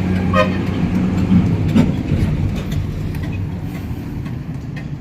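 Kubota NeoStar 21 hp mini tractor's small diesel engine running steadily, with a low, even drone. A short higher-pitched tone, like a toot, sounds about half a second in.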